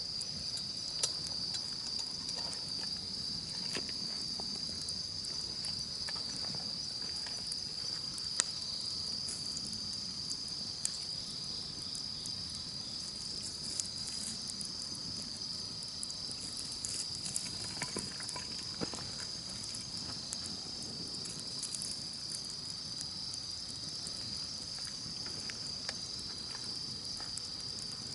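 Campfire crackling, with scattered sharp pops over a steady high-pitched chorus of insects. The strongest pop comes about eight seconds in.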